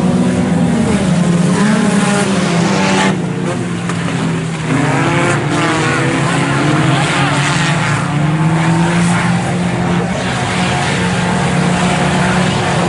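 A pack of IMCA Sport Compact race cars taking the green flag, several engines revving and pulling hard at once. Their pitches rise and fall over one another, with a brief dip in loudness about three seconds in.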